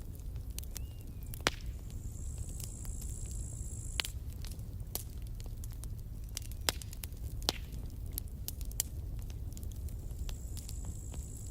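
Wood campfire crackling: irregular sharp pops and snaps, a few much louder than the rest, over a low steady rumble. A thin high-pitched hiss comes in for a couple of seconds, twice.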